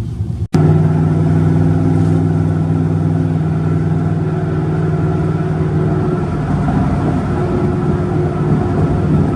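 Truck engine running steadily at a near-constant speed, loud and close, starting after a brief cut about half a second in.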